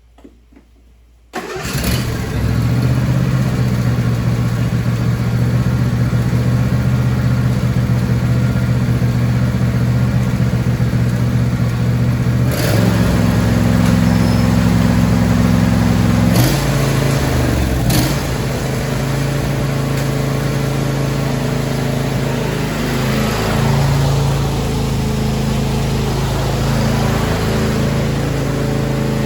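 John Deere D130 lawn tractor's 22 hp two-cylinder Briggs & Stratton engine starting about a second in, catching at once, and running steadily. Its running note shifts a couple of times, with a few short clicks along the way.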